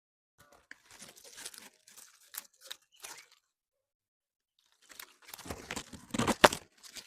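Crinkling, crackling rustle in two spells of about three seconds each, with several sharp cracks among it, the loudest about six and a half seconds in.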